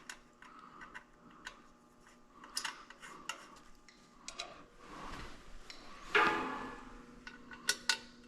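Scattered small clicks and taps of parts and tools being handled, irregular rather than evenly spaced. About six seconds in comes a louder rattle, followed by a faint low steady hum.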